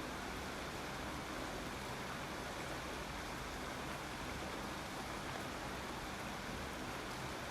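Steady rain falling, an even hiss that neither rises nor falls, with no single drops or other sounds standing out.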